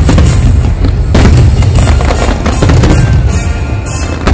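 Loud aerial fireworks barrage: rapid booms and crackling bursts over a low rumble, with a fresh surge of bangs about a second in. Show music plays under the fireworks.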